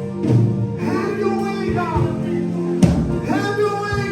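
Church worship music: held keyboard chords under a voice singing long, sliding phrases, with a single drum or cymbal hit near three seconds in.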